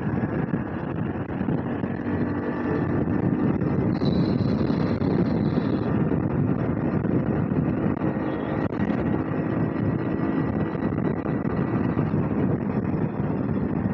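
Hero Splendor motorcycle's single-cylinder four-stroke engine running steadily while riding in traffic, with wind rushing over the helmet-mounted microphone.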